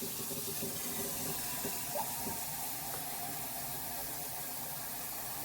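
Water running steadily from a kitchen tap into a small pot as it is filled.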